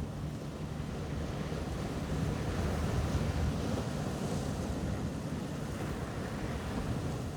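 Sea waves washing onto a beach, a steady rushing surf, with wind buffeting the microphone.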